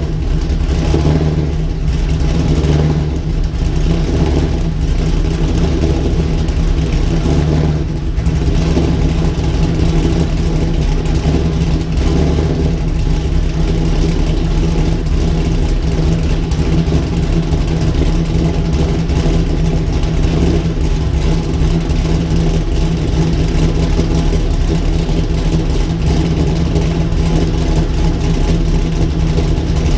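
Chevrolet Camaro engine idling steadily while it warms up after a cold start.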